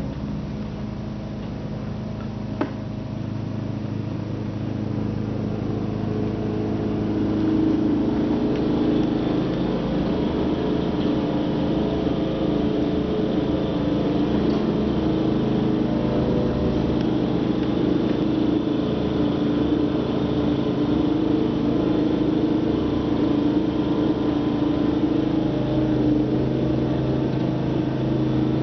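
Simplicity snow blower engine running steadily, getting louder over the first several seconds and then holding, with one sharp click a couple of seconds in.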